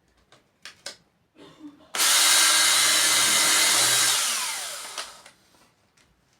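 A few light handling clicks, then an electric drill with a 5 mm bit starts abruptly and runs for about two seconds, drilling a hole through a clock dial. It spins down with a falling whine after the trigger is let go.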